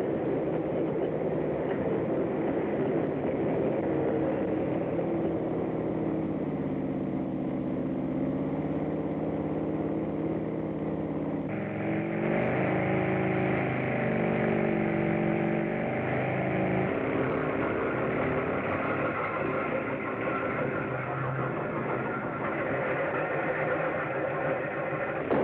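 A vehicle engine running steadily, its pitch shifting and gliding about halfway through.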